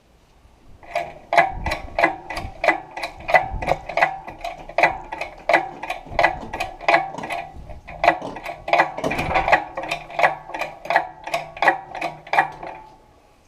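A ratchet mechanism worked steadily: an even run of sharp metallic clicks, about two a second, starting about a second in and stopping near the end.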